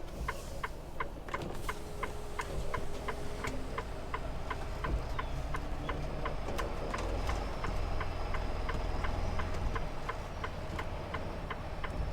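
Semi truck's flasher relay clicking in the cab at an even fast pace, about three clicks a second, over the steady low rumble of the truck's engine and road noise.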